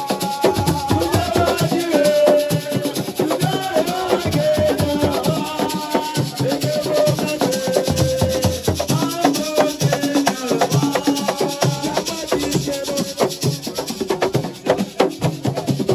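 Live Senegalese assiko music: dense hand percussion with rattling shakers under a sung, wavering melody.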